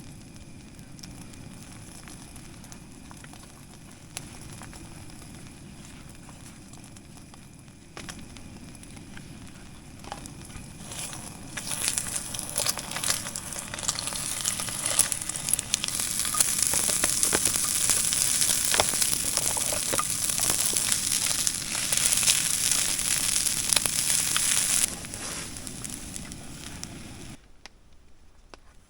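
Eggs frying in hot beef tallow in a camp pan. A low steady hiss gives way, about 11 seconds in, to a loud sizzle full of crackling and spitting. The sizzle eases near the end and then stops suddenly.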